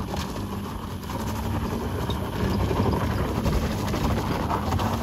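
Maruti Alto's small three-cylinder petrol engine running under load, getting louder about halfway through, as the car struggles for tyre grip on loose gravel.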